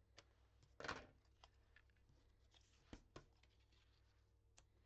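Faint papercraft handling: a Stamp and Seal tape runner laying adhesive on card, with a few short scratchy strokes and clicks, the most distinct about a second in and two smaller ones near three seconds.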